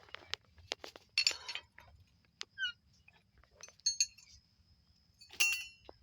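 Hard objects knocking and clinking as they are handled, a dozen or so sharp knocks, three louder ones about a second in, about four seconds in and near the end, each ringing briefly like metal. No engine is running.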